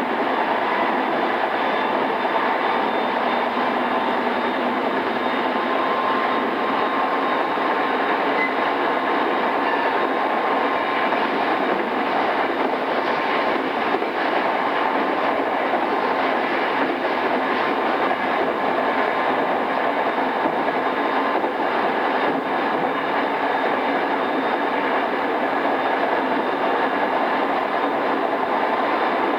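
Interior running sound of a JR East E217-series electric multiple unit in its pre-renewal form, heard aboard motor car MoHa E217-2006 at speed. There is a continuous rumble of wheels on rail with a faint steady whine over it.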